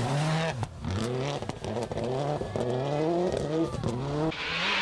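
Rally car engine heard from inside the cockpit, accelerating hard through the gears: the revs climb and drop back with each quick upshift, about five times in a row.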